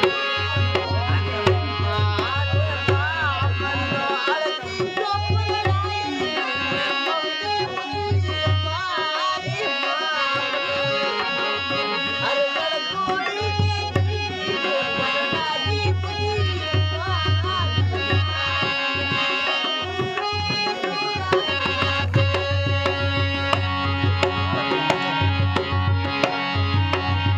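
Indian folk music: a hand drum playing a steady tabla-style rhythm under a melody of held notes that bend up and down.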